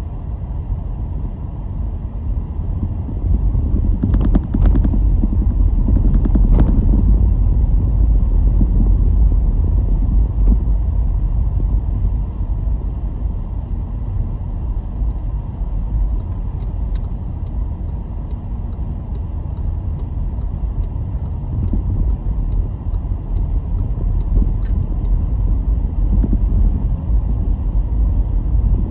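A car driving along, a steady low rumble of engine and tyres on the road, growing louder about four seconds in, with a few knocks over the next few seconds. A faint regular ticking runs through the middle.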